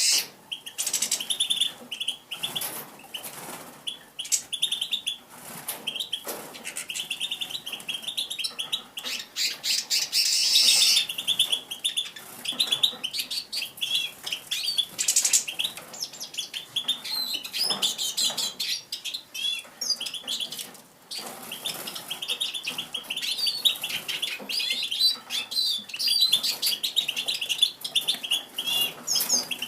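Pine grosbeak singing: a long run of rapid, high chirps and warbling twitters, coming in bursts with short breaks.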